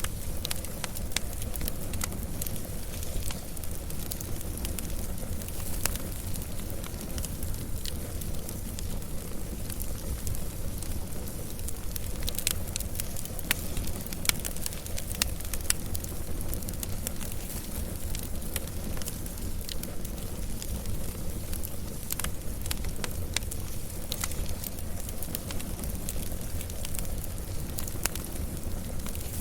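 Wood fire burning, with a steady low rumble under many small, irregular crackles and pops, a few sharper pops about halfway through.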